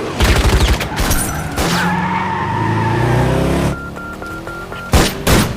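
Film car-chase sound effects: a car engine running with tires skidding, a rapid run of sharp bangs about half a second in, a row of short evenly spaced electronic beeps in the second half, and more loud bangs near the end.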